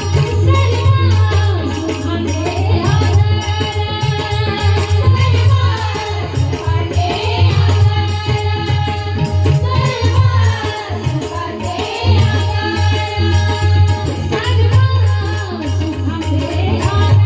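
Marathi devotional abhang music: a gliding melodic line over steady pakhavaj drumming and fast, continuous small-cymbal (taal) strokes.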